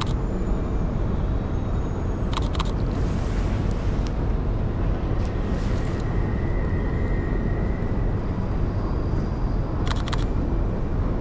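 Steady low rumble of passing vehicles, with short bursts of quick clicks about two seconds in and again near the end.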